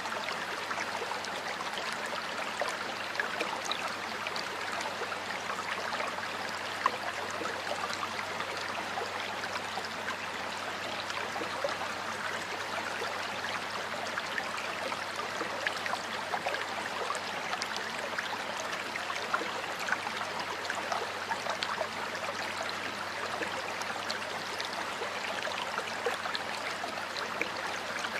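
Water flowing in a stream, a steady babble sprinkled with many small splashes and droplet ticks.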